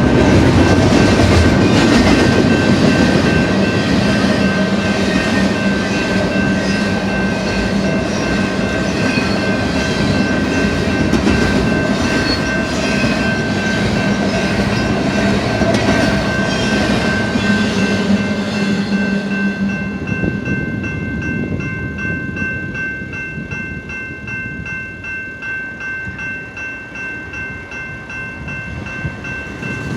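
Double-stack container train's well cars rolling past on the rails, wheels clacking over the rail joints, with a steady high ringing tone throughout. The rolling noise grows quieter about two-thirds of the way through as the end of the train passes.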